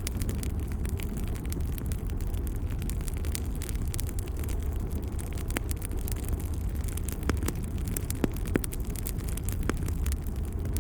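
Wood fire burning in a fireplace: a steady low rumble of the flames with scattered crackles and snaps, a couple of sharper pops after about eight seconds.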